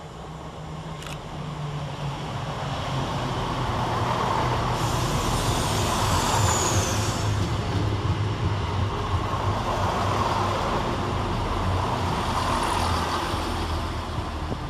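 Two coupled Class 170 Turbostar diesel multiple units coming into the station, their diesel engines humming and the wheels on the rails growing louder over the first few seconds, then running steadily. A brief high squeal that falls in pitch sounds about six seconds in.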